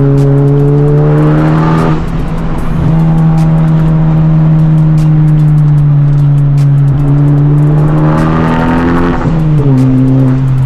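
Honda Civic Type R's turbocharged four-cylinder, running a catless downpipe and resonator delete, pulling hard. The revs climb, drop briefly about two seconds in like a gear change, then hold a steady drone. Near the end they rise again and fall off.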